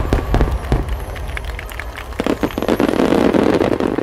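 Ten-inch (shakudama) aerial firework shells bursting in a rapid volley: deep booms with sharp cracks and crackling. From about two seconds in, a crowd cheering and applauding rises over the last reports.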